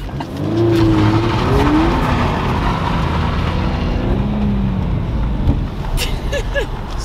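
Subaru BRZ engine heard from inside the cabin, revving and rising in pitch as the car pulls away, then rising again a few seconds later.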